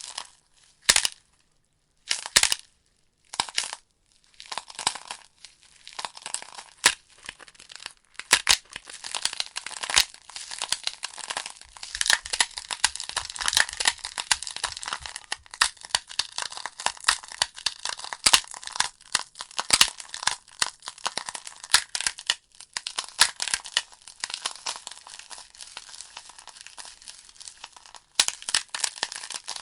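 Wood fire in a fireplace crackling: a dense hiss of small crackles with frequent sharp pops and snaps from the burning logs. The sound cuts out briefly a few times in the first four seconds.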